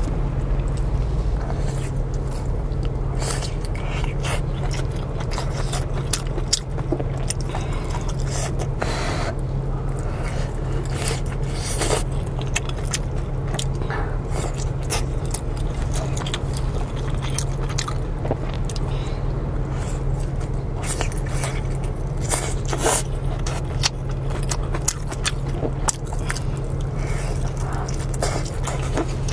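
Close-miked eating of spicy rice noodles: chewing and biting, with scattered short clicks and scrapes of utensils against the bowl, over a steady low hum.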